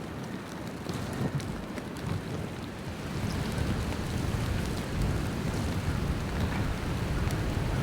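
Blizzard wind gusting against the microphone: a steady rushing noise with low buffeting rumble that grows louder toward the end.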